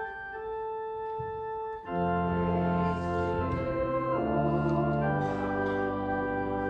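Organ playing sustained notes: a single melodic line at first, then much louder full chords coming in about two seconds in and changing twice.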